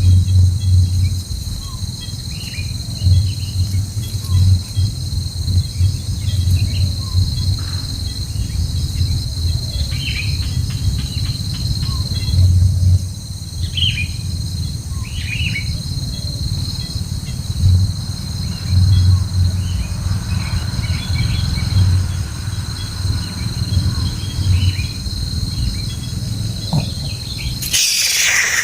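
Steady high-pitched drone of insects, with short bird chirps scattered over it. A low rumble comes and goes underneath, and near the end the sound changes abruptly to a broader noise.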